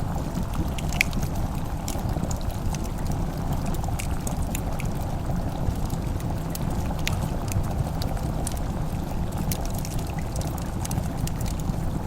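Fireplace crackling: scattered sharp pops and snaps at irregular intervals over a steady low rumble.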